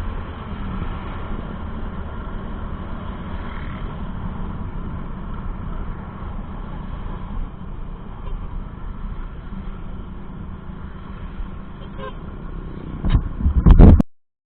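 A motor vehicle's engine running steadily with a low rumble, then a few loud knocks just before the end, after which the sound cuts off suddenly.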